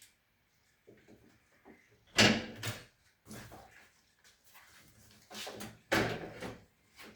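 Irregular knocks and scrapes of parts being handled during work on a front-loading washing machine, with two louder clatters about two seconds and six seconds in.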